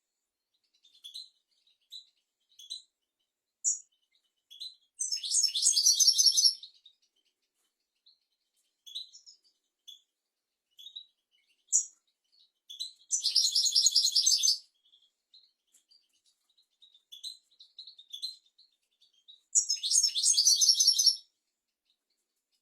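European goldfinch singing: scattered short, high twittering notes between three fast, dense trilled phrases about seven seconds apart.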